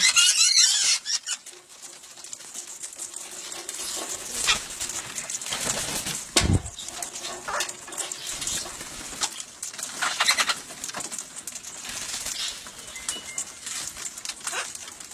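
Wild parrots flapping and fluttering as they fly in and land to feed from hands, in short flurries of wingbeats and rustling, loudest in the first second. A heavier thump comes about six and a half seconds in.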